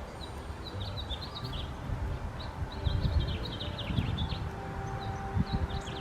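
Birds chirping: a busy run of short, high, mostly falling chirps, over a low rumble of wind on the microphone.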